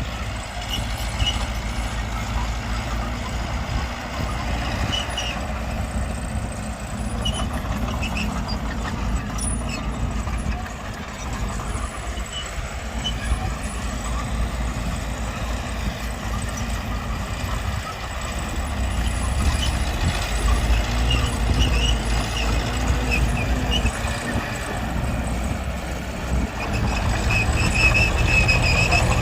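Diesel engines of earthmoving machinery, a bulldozer and dump trucks, running steadily. The rumble swells louder twice, about two-thirds of the way in and again near the end, with short high squeals now and then.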